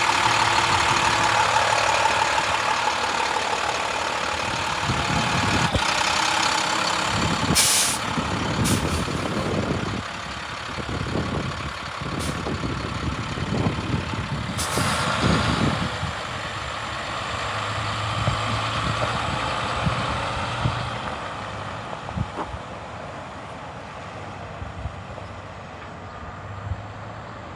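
Heavy utility truck's MaxxForce DT diesel running, with brief sharp air hisses about 8 seconds and 15 seconds in. It settles quieter toward the end.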